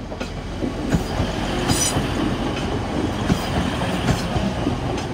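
Class 185 diesel multiple unit passing at close range, its wheels clattering over the rail joints and crossing with a steady rumble. A brief high squeal comes about two seconds in.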